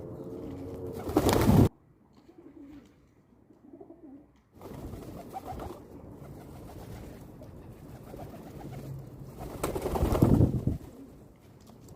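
Pigeons cooing, low and repeated. Two loud, short rushing bursts break in, one about a second in and one near ten seconds.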